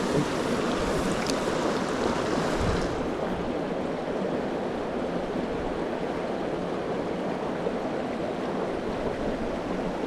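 Mountain stream water rushing steadily over rocks, a constant even rush; the higher hiss drops away about three seconds in.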